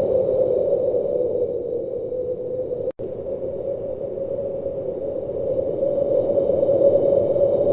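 Blizzard wind blowing steadily, a dense low rushing with a hollow moaning tone in it. The sound cuts out for an instant about three seconds in.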